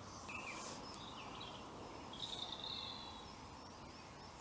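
A few short bird chirps and a brief trill over a steady low hum of distant road traffic.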